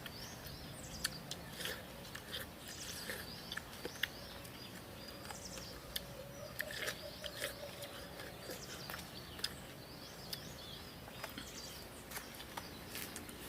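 Watermelon being bitten and chewed: scattered wet clicks and crunches, with short high chirps here and there.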